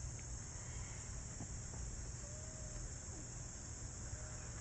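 Steady, high-pitched chorus of insects trilling without pause.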